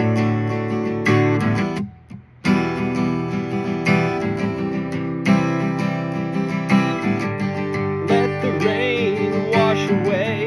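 Acoustic guitar strumming chords, stopping briefly about two seconds in before carrying on, with a singing voice entering near the end.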